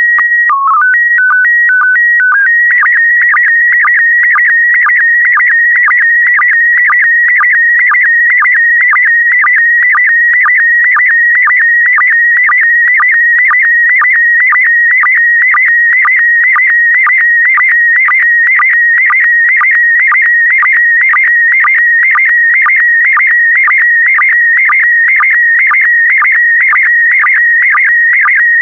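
Slow-scan TV signal in PD120 mode: a short header of stepped steady beeps, then the image scan itself, a continuous warbling electronic tone with a regular tick about twice a second from the line-sync pulses.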